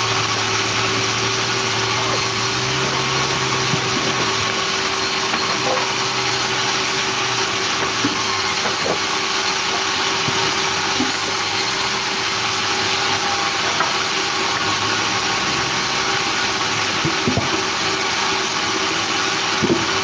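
Sawmill machinery running steadily: an even engine-driven drone with a constant hum, and a few faint knocks here and there.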